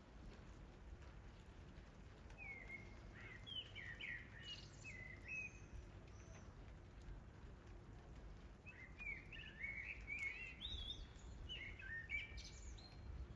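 A songbird singing two runs of quick chirping, warbled phrases, the first about two seconds in and the second from about halfway to near the end, over a faint steady background hiss.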